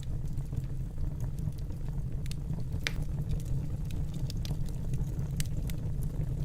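Wood fire burning in a fireplace: a steady low rumble with irregular crackles and pops, one sharper pop about three seconds in.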